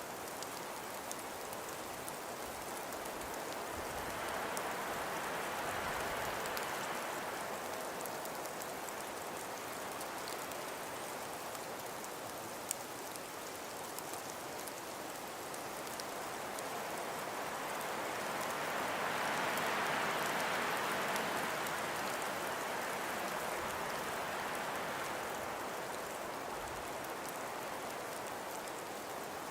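Wind in a snowstorm blowing in a steady hiss. It swells into a gust about five seconds in and a stronger one around twenty seconds in, over faint scattered ticks.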